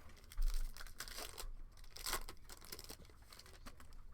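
Foil trading-card pack wrapper being torn open and crinkled, with irregular rustling and two sharper rips, about half a second and two seconds in.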